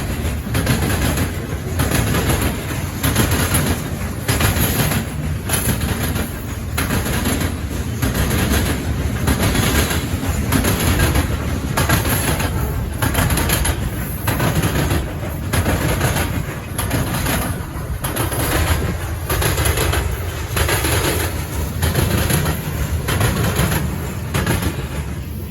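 Loaded potash hopper cars of a freight train rolling past, the wheels clacking over rail joints in a steady rhythm of about one clack a second over a continuous rumble.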